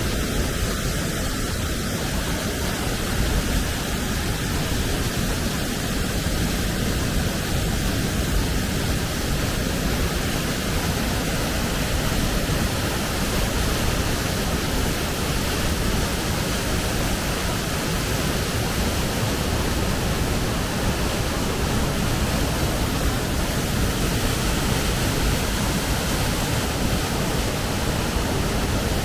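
Waterfall: falling water rushing steadily without a break.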